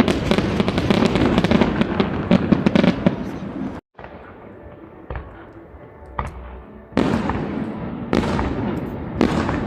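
Aerial fireworks going off: dense crackling bursts and bangs, cut off abruptly just under four seconds in. A quieter stretch with a few scattered pops follows, then loud bangs start again about seven seconds in.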